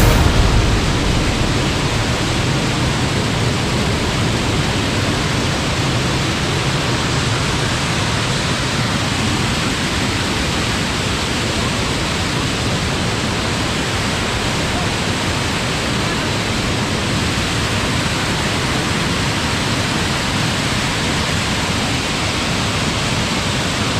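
A heavy waterfall: a steady, even rush of falling water.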